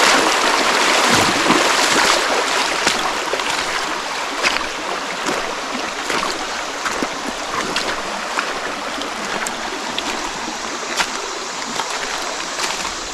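Swollen creek water rushing past in a fast current, a steady rush that is loudest at first and eases off gradually, with a few faint clicks through it.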